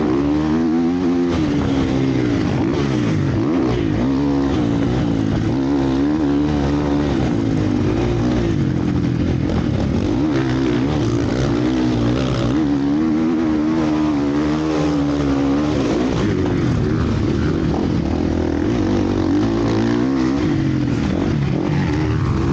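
Motocross bikes racing on the track, several engines overlapping and revving up and down over and over as the riders accelerate and back off.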